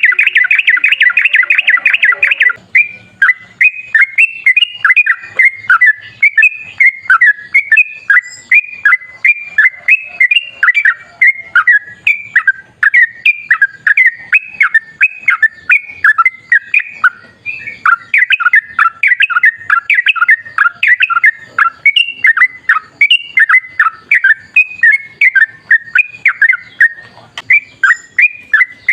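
Yellow-vented bulbul singing a long, unbroken song: it opens with a rapid bubbling trill, then runs on as fast strings of short chattering notes.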